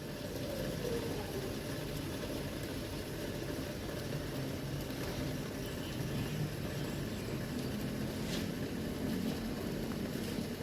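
Steady low mechanical hum, like an engine idling in the background.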